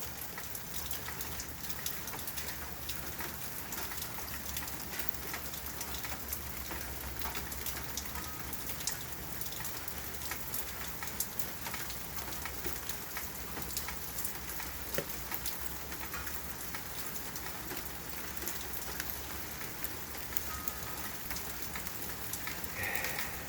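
Light, steady rain falling, with many small drop ticks pattering on hard surfaces.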